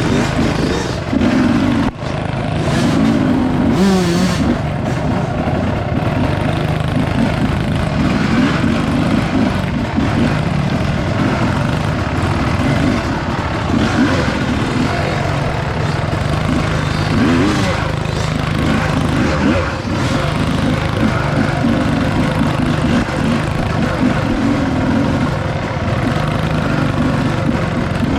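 Dirt bike engine running while riding, its revs rising and falling with the throttle, with a brief dip about two seconds in.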